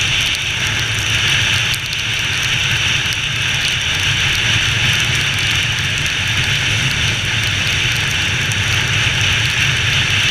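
Honda XR 250 Tornado's air-cooled single-cylinder four-stroke engine running steadily while riding, under a steady hiss of wind and rain.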